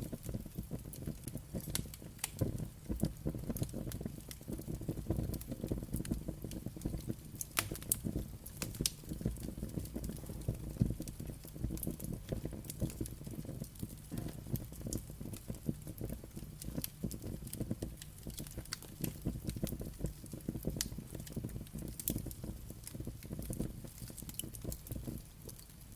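Wood fire crackling, with frequent sharp pops and snaps scattered irregularly over a steady low rumble of flames.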